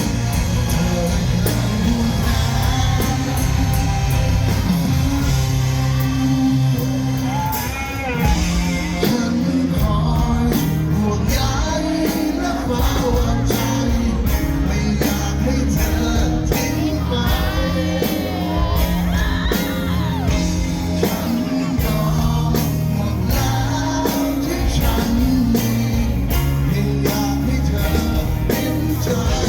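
A band playing a rock song, with a singer's voice over drums and bass.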